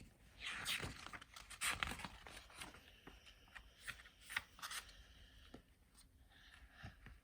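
Soft paper rustling and small clicks as a book page is turned and handled, loudest in the first two seconds, then fainter scattered ticks.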